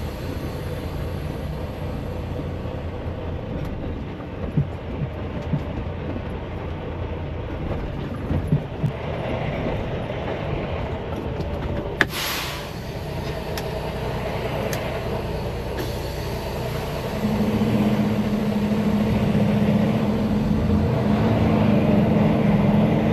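Semi-truck diesel engine running steadily, with a few light clicks and, about halfway through, a sharp click followed by a short burst of air hiss from the truck's air system. In the last several seconds the engine note rises to a louder, steadier hum.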